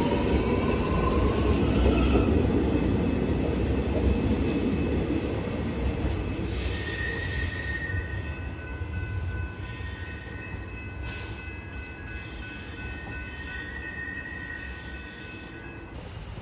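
Electric suburban train running through the station: a rising motor whine in the first couple of seconds over wheel rumble, then steady high-pitched wheel squeal from about six seconds in, the whole sound gradually fading as the train draws away.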